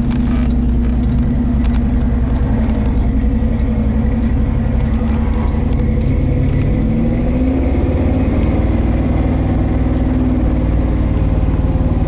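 1968 Ford F250's 360 V8 engine running under way, heard through its new exhaust system, its pitch shifting about halfway through.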